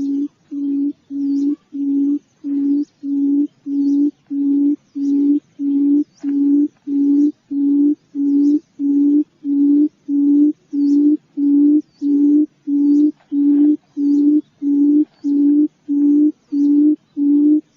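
Quail lure call: a low hoot repeated steadily, nearly two a second, with faint high chirps above it.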